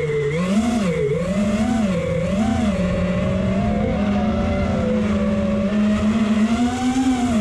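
FPV quadcopter motors and propellers whining, the pitch rising and falling several times in the first few seconds as the throttle changes, then holding fairly steady with a slight rise near the end.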